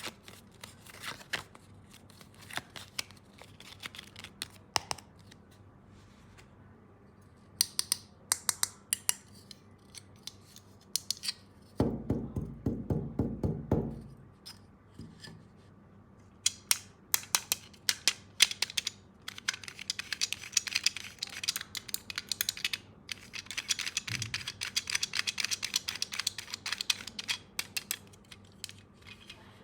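Hard plastic toy tools being handled: scattered clicks and taps, a brief low buzz about twelve seconds in, and a fast run of rattling clicks in the second half.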